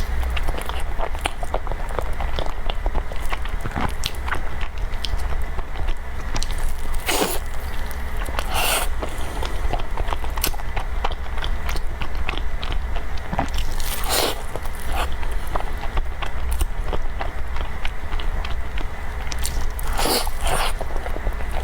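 Close-miked mouth sounds of a person eating: biting and wet chewing with many small clicks and smacks, and a few louder ones, over a steady low hum.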